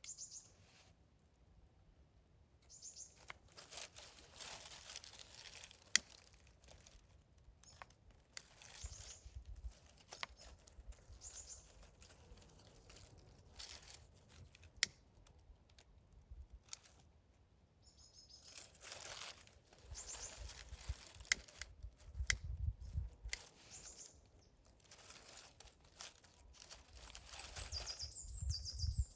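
Intermittent crinkling and rustling from hands working at something, in spells of several seconds, with a few sharp clicks and some brief high bird chirps.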